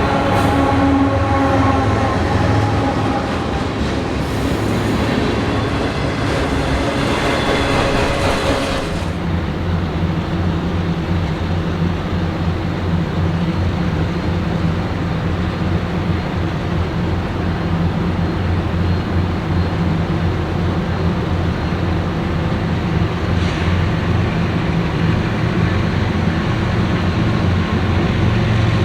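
A train rolling past on the rails. For about the first nine seconds several steady high tones ring over a hiss, then they stop and a steady low drone carries on.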